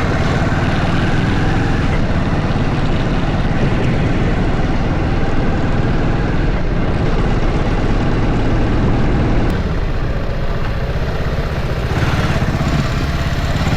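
A vehicle's engine running steadily under wind and tyre noise while travelling along a road, with a slight easing for a couple of seconds in the second half.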